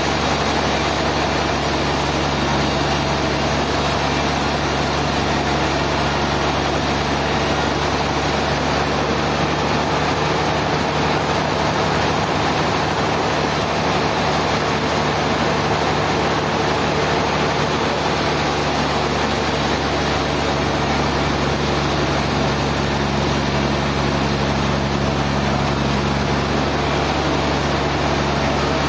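Sawmill machinery running steadily: a constant low engine hum with an even hiss over it.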